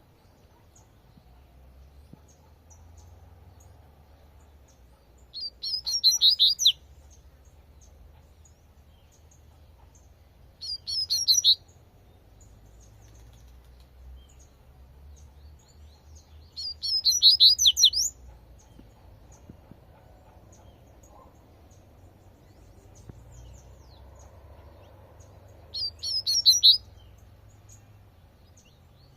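Double-collared seedeater (coleirinho) singing its 'tui-tui' song type: four short, rapid, high-pitched phrases, each about a second long, several seconds apart.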